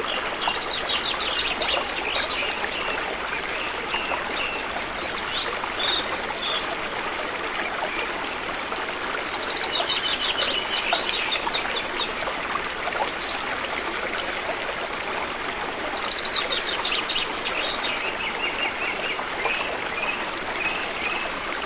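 River water flowing steadily, with a songbird singing a rapid trilled song three times, about seven seconds apart, and scattered chirps between.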